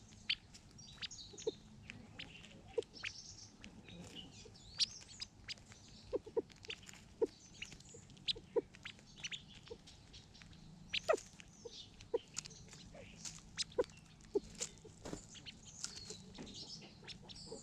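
A flock of California quail calling softly: short, sharp ticking notes at an irregular pace, sometimes several a second, with higher chirps and twitters in between.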